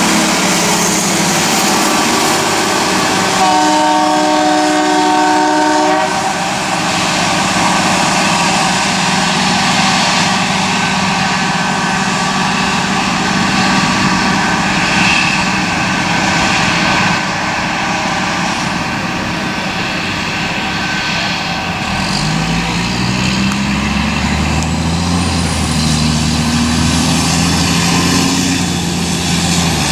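Railroad equipment train rolling past with steady wheel and rail noise. Its air horn sounds one steady chord for about two seconds a few seconds in. Near the end a heavy dump truck's diesel engine pulls away, its pitch rising several times as it works up through the gears.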